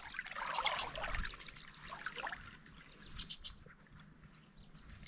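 Creek-side outdoor sound: a soft noisy rush for the first couple of seconds, then a quieter background with a brief run of rapid high-pitched clicking animal calls about three seconds in.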